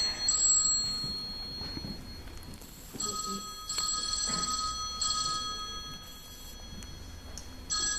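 Telephone ringing: four rings, roughly two to three seconds apart.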